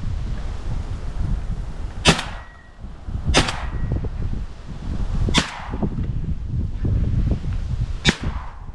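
Four shotgun shots fired during a wood pigeon hunt, sharp cracks about two seconds apart, over steady wind noise on the microphone.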